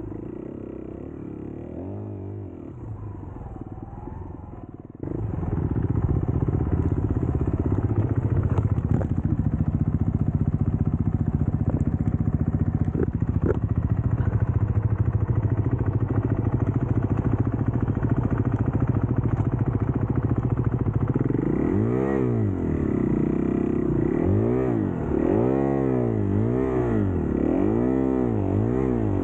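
Dirt bike engine running under way, cutting in suddenly louder about five seconds in. Near the end its pitch rises and falls over and over, about once a second, as the throttle is worked.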